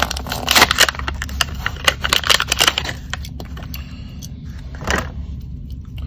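Crinkling plastic blister and cardboard backing card of a Hot Wheels package being handled and opened. It gives a dense run of crackles and clicks for about three seconds, then only a few scattered clicks.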